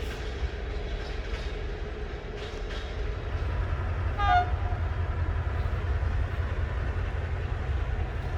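Departing passenger train rumbling along the track, growing heavier about three seconds in, with wheel clicks over rail joints. About four seconds in comes one short horn toot.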